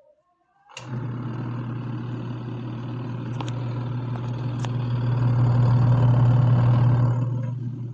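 Motor of a mini portable washing machine starting up under a second in and running with a steady low hum that swells and then eases near the end, with a few sharp clicks.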